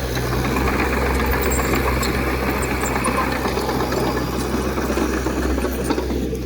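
Diesel engine of heavy earthmoving equipment running steadily with a low hum and a busy mechanical clatter.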